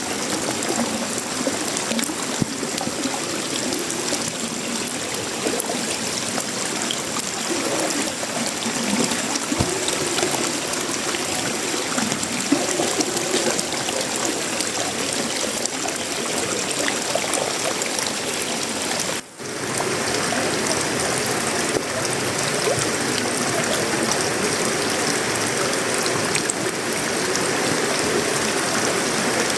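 Heavy tropical rain falling steadily on a sheet-metal roof, wood and leaves: a dense, even patter with running water. The sound drops out for a split second about two-thirds of the way through.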